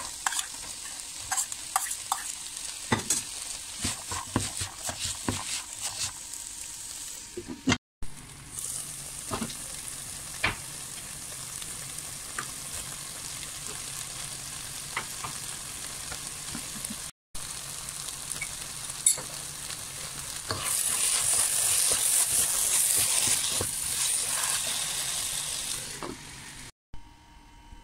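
Chicken and vegetable filling frying in a pan, a steady sizzle, with a wooden spatula knocking and scraping against the pan as it is stirred during the first part. The sizzle grows louder about two-thirds of the way through.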